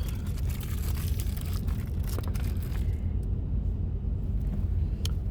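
Steady low rumble of a semi truck on the road, heard from inside the cab, with scattered light clicks and rattles.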